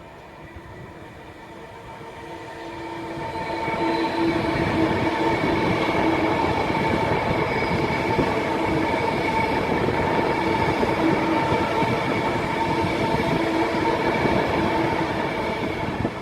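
A train running through the station, growing louder over the first four seconds and then holding loud and steady, with steady whining tones over the rumble.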